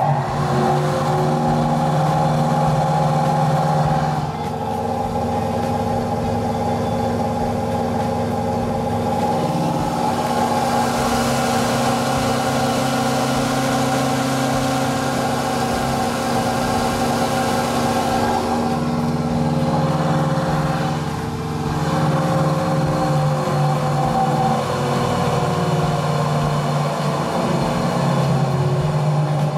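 Okada Seiko New Speed Mill, an all-stainless knife grinder, running empty with a steady motor whine made of several held tones. Two of the upper tones sink slightly in pitch over the last few seconds.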